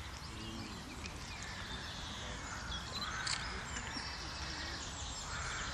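Quiet outdoor background with faint scattered birdsong: short chirps and little calls over a low steady rumble of open-air ambience.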